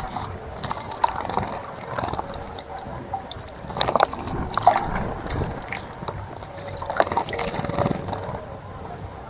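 A bird bathing in a bird bath: irregular splashing and sloshing of water, loudest about four and seven seconds in.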